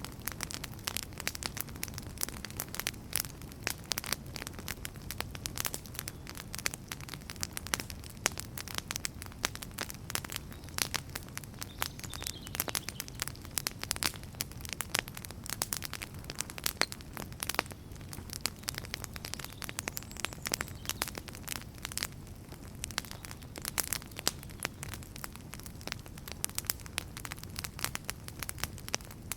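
Crackling fire: dense, irregular pops and crackles over a steady low rumble.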